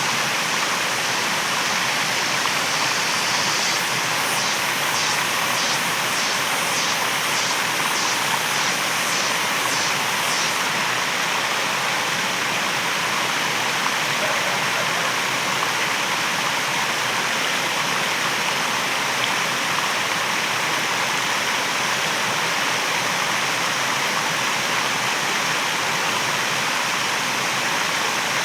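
Waterfall rushing steadily. A high pulsing sound, about two pulses a second, joins it from about four to ten seconds in.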